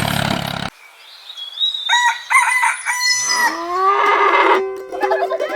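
A rooster crowing: one cock-a-doodle-doo of about two seconds, followed by a lower, rising, drawn-out sound. Music with plucked strings comes in near the end.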